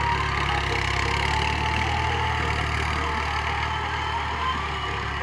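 Ghazi tractor's diesel engine running steadily at idle, an even low-pitched drone with no change in speed.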